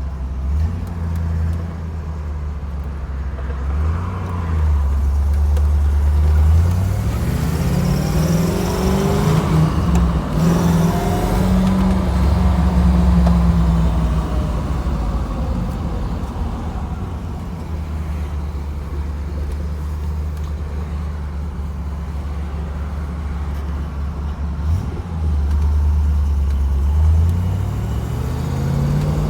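1969 Camaro V8 engine driving on the road, its pitch climbing several times as it accelerates, with steady cruising in between.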